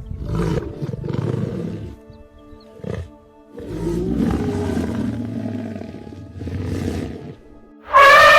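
Lion roaring in several long, rough bouts over soft sustained background music. A loud held tone cuts in near the end.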